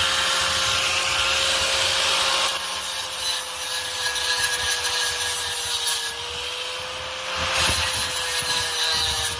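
Power tool working on metal exhaust pipe: a steady whine under a harsh hiss that drops away and comes back a couple of times.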